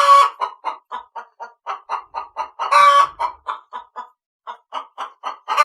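Hen clucking: a rapid run of short clucks, about five a second, broken by two longer, louder cackling notes, one near the start and one about three seconds in, with a brief pause around four seconds in.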